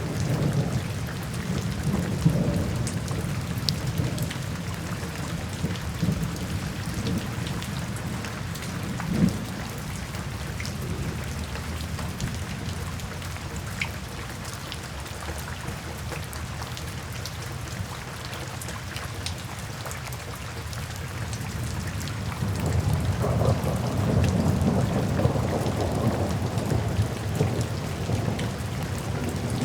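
Steady rain falling, with soft rolling thunder that rumbles at the start, dies down through the middle, and swells again a little over twenty seconds in.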